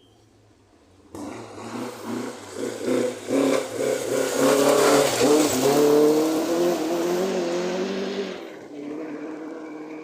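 Rally car coming through at speed, its engine revving hard with pulsing and climbing pitch, then fading away. The sound comes in suddenly about a second in and is loudest midway.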